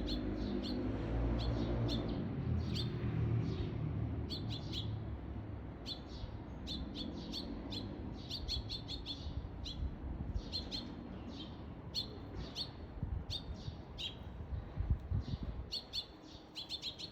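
Eurasian tree sparrow chirping over and over in short clusters: an adult with food in its beak calling its fledgling. A low rumble sits under the chirps in the first half and fades away later.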